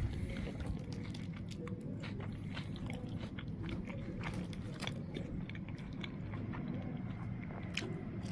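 Close-up chewing of a wrap with crunchy carrots and onions: irregular small crunches and moist mouth sounds.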